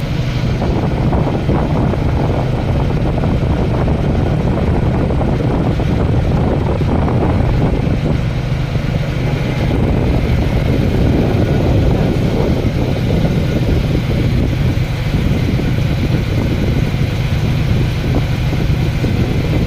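An engine running steadily with a deep, even hum and rumble that holds unchanged throughout.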